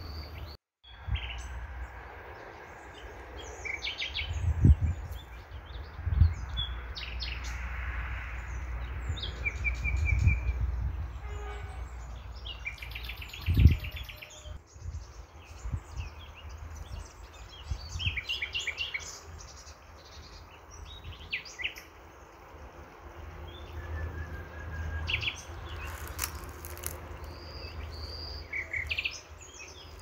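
Small birds chirping over and over, with a low rumble underneath and a few dull knocks, the loudest about halfway through.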